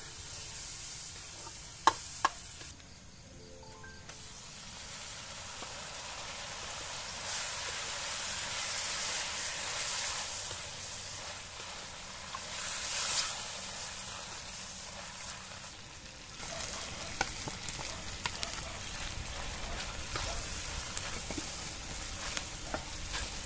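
Garlic and then ground meat sizzling in hot oil in a steel wok while a ladle stirs and scrapes through it. Two sharp knocks of the ladle on the wok come about two seconds in. The sizzle swells in the middle, and small clicks and scrapes run through the second half.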